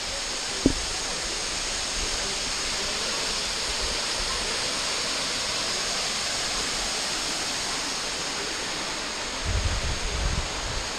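Waterfall rushing in a steady, even roar of falling water. Near the start there is one sharp click, and near the end a brief low rumble.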